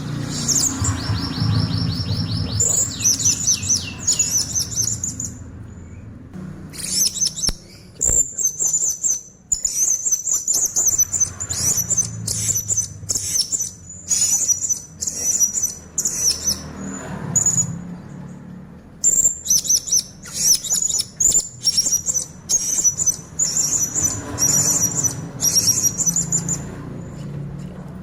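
Blue-crowned hanging parrot (serindit) singing in full voice: very high, rapid chirps and trills delivered in many short bursts, with brief pauses between runs.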